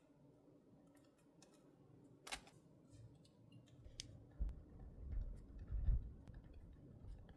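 Hands handling stationery on a desk: a sharp click a little over two seconds in and scattered light ticks, then low rubbing and bumping against the desk through the second half.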